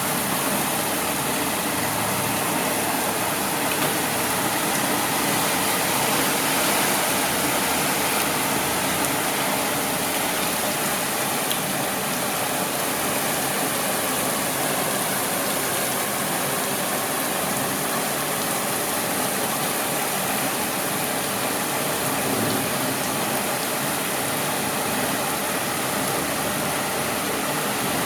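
Heavy rain pouring down steadily, a dense even hiss of a downpour with no let-up.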